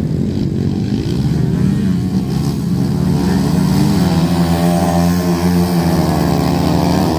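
Motocross bike engines running hard. The engine note climbs over the first couple of seconds, then holds fairly steady with small rises and falls.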